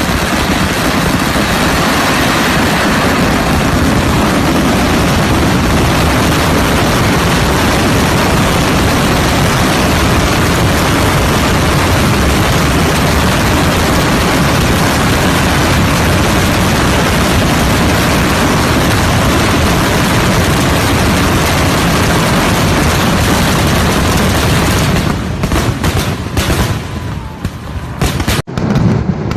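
Dense, loud barrage of firecracker explosions from a Kerala temple-festival fireworks display (vedikettu). The bangs come so fast that they merge into one unbroken noise, then thin out into separate bangs about 25 seconds in.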